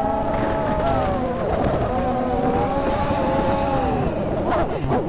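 FPV quadcopter's brushless motors and propellers whining, the pitch shifting with throttle, sagging about a third of the way in and rising sharply near the end. A wobble is going on, which the pilot fears comes from a failing capacitor.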